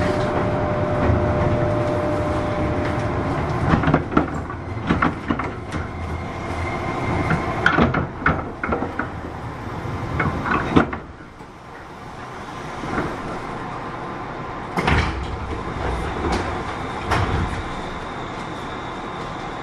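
A JR 201 series chopper-controlled electric train, heard from inside its motor car. It runs with a steady whine for the first few seconds, then a series of knocks and clanks from the wheels and underfloor. The running noise falls away about halfway through to a quieter steady hum, and a couple of heavy thumps come near the end.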